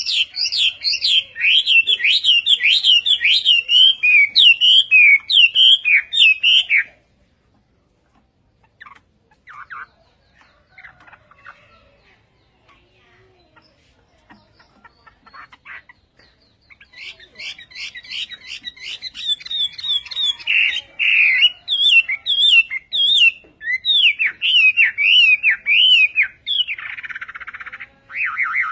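Hwamei (Chinese hwamei) singing: a long run of loud, fast, varied whistled phrases, then several seconds of soft scattered notes, and another long loud run from about halfway through, closing with rapid repeated notes.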